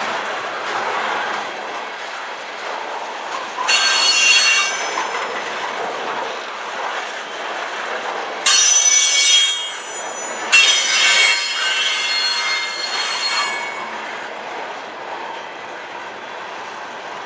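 Cars of a passing freight train rolling by, with the wheels squealing high and piercing in three spells, the longest lasting about three seconds.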